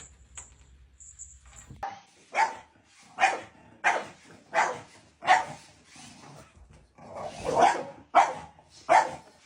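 A dog barking over and over, starting about two seconds in, with a bark roughly every two-thirds of a second.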